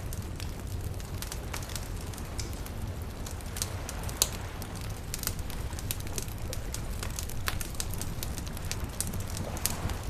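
Wood campfire crackling: irregular sharp pops and snaps, one louder pop about four seconds in, over a steady low rumble.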